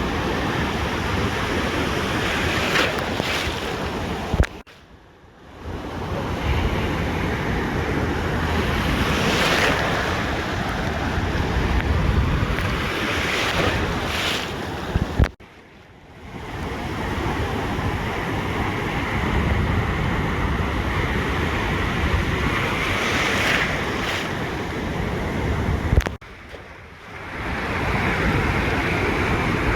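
Ocean surf breaking and washing up a beach in swells, with wind on the microphone. Three times, about eleven seconds apart, the sound cuts out with a click and fades back in over about a second.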